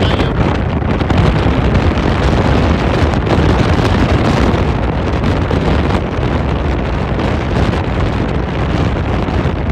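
Strong storm wind blasting the microphone: a loud, steady rumble that rises and falls slightly with the gusts.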